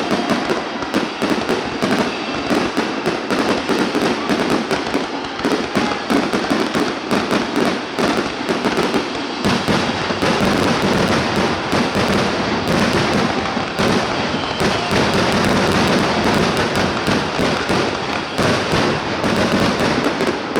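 Aerial fireworks going off in a dense, rapid barrage of bangs and crackles, one burst on top of the next.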